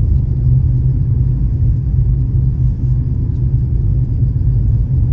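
Steady low rumble of a car being driven, engine and road noise with no change in pace.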